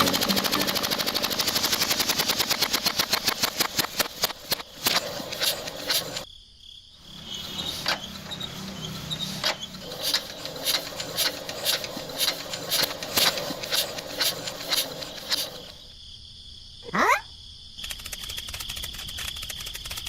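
Small petrol engine firing in a rapid run of sharp pops that slows into irregular, misfiring pops and fades out. Insects chirp steadily near the end.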